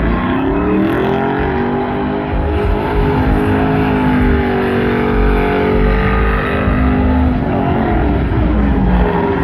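Pickup truck engine revved hard and held at high revs, as in a burnout or donut. The revs sag briefly about two seconds in, drop back near the end and climb again.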